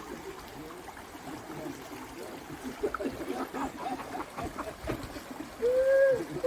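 Stream water running, with faint voices about halfway through and a short rising-and-falling call near the end.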